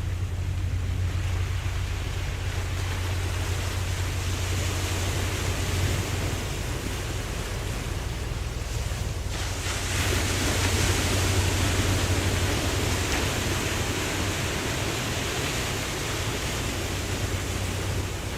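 Ocean waves washing, a continuous surf hiss that swells into a louder, brighter wave about ten seconds in, over a steady low hum.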